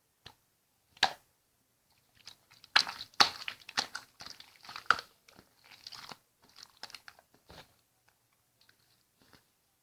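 Slime being squeezed and pressed by hand, giving sharp crackles and clicks: one about a second in, then a dense run of crackling for a few seconds, thinning to scattered small clicks.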